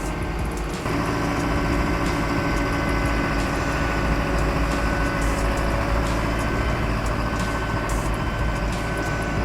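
Heavy vehicle's engine running steadily, with an abrupt change in the sound about a second in.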